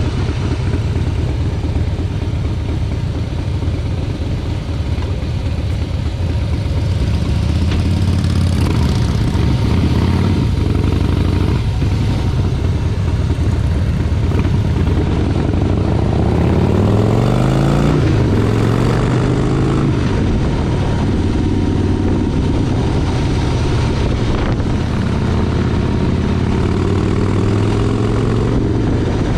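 Motorcycle engine running while riding, steady and loud; about two-thirds of the way through it revs up in a rising pitch, then settles at a steady speed.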